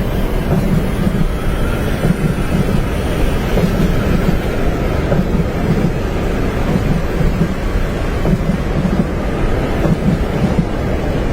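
Steady low rumble of a train running on its tracks, heard from inside a passenger compartment, with a constant hiss of noise above it and no distinct clickety-clack beat.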